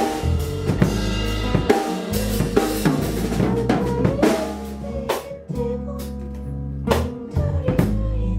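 Live band music: a drum kit keeping time with bass drum and snare hits over sustained bass and pitched instrument notes, the drumming sparser in the second half.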